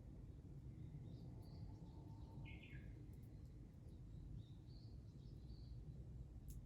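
Faint outdoor quiet with a low steady background hum, over which small birds give a few brief chirps, one a little lower and clearer about two and a half seconds in. A single sharp click comes near the end.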